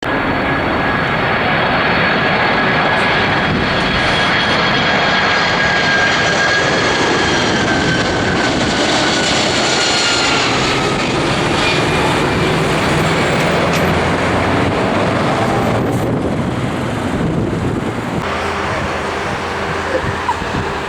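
Jet airliner's engines passing close by: a loud, steady rush with high fan whines that slowly drop in pitch around the middle, easing a little near the end.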